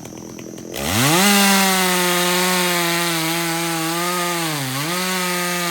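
Two-stroke chainsaw idling low, then revved up sharply about a second in and held at high revs, with a brief drop in pitch near the end as the chain loads up in the wood and recovers.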